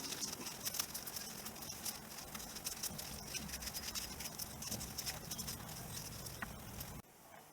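Quick, irregular scratching and clicking of a brush scrubbing a metal driveshaft part clean. It drops away abruptly near the end.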